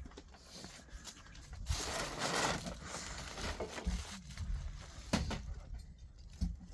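Plastic sheeting rustling as it is handled, swelling for about a second, then a few sharp knocks later on.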